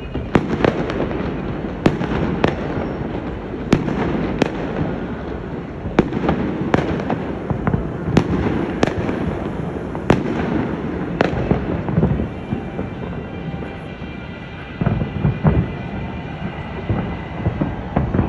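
Aerial fireworks bursting: sharp bangs about once a second over a continuous rumble and crackle, thinning to fewer, duller thumps after about twelve seconds.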